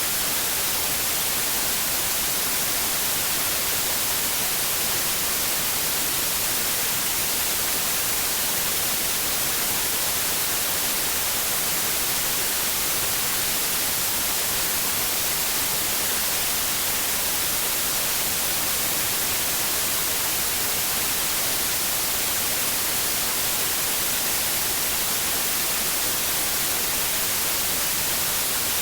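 Steady white noise: an even, unchanging hiss, brightest in the high frequencies, played continuously as a sleep aid for babies.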